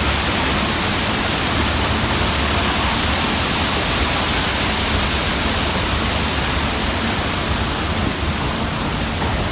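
Torrent of water pouring down in a staged subway-flood effect, a steady loud rushing.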